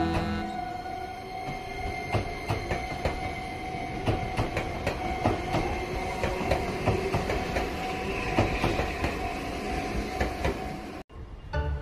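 Enoden (Enoshima Electric Railway) electric train pulling out of the station, its wheels clicking over the rail joints with a steady hum. A high wheel squeal rises in the second half as it rounds the curve. The sound cuts off abruptly near the end.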